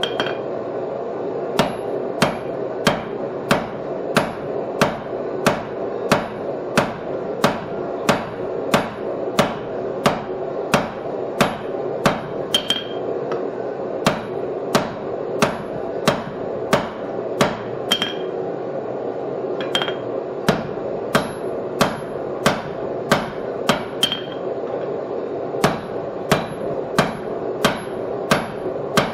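Hammer blows on hot steel over an anvil at a steady pace, about three strikes every two seconds, some leaving a brief high ring. A steady hum runs underneath.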